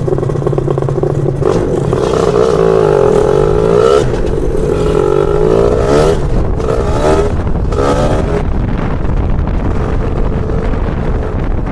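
Lambretta scooter's two-stroke BFA 325-type engine under way, its revs climbing and falling back several times, then running steadier near the end.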